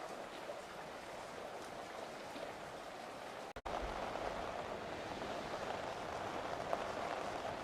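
Steady hiss of heavy rain during a coastal storm. It cuts out for a moment about three and a half seconds in, then comes back a little louder.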